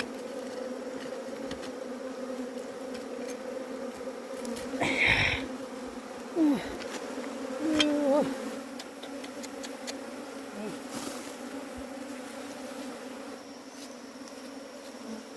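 Bees buzzing in a steady, continuous hum. A few short louder sounds break in about five to eight seconds in.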